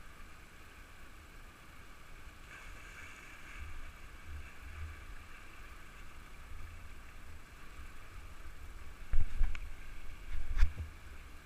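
Steady rush of river water, with wind rumbling on the microphone and two loud knocks near the end.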